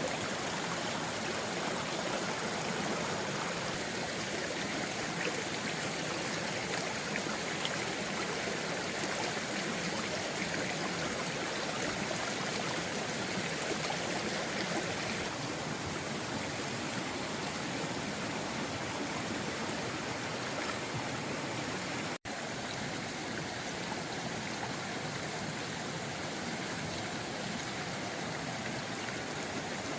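Steady rushing of flowing water, like a swollen stream or floodwater, with no other sound standing out. It drops out for an instant about two-thirds of the way in.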